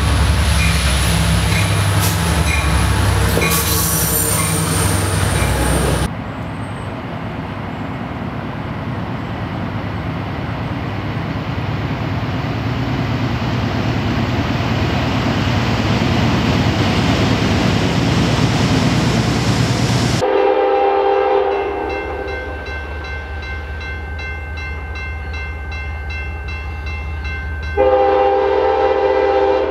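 Diesel trains in quick succession. A passenger train passes close with pulsing wheel noise and a high whine. Then a freight train's diesel locomotives rumble steadily, growing louder as they approach. Then a Union Pacific GE diesel locomotive's air horn sounds, faint at first and loud near the end.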